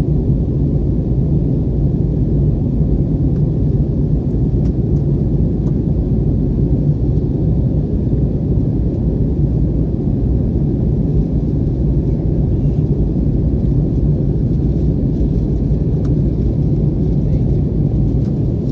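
Steady low roar of an Airbus airliner in flight, heard from inside the cabin: engine and airflow noise at an even level.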